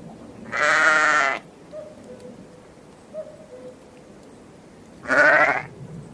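Two bleats from a farm animal, the first just under a second long and the second shorter, about four seconds apart, each with a wavering pitch.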